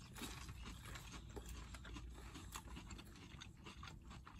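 Faint, irregular crunching of two people chewing crispy breaded chicken nuggets, the coating crackling as they bite and chew.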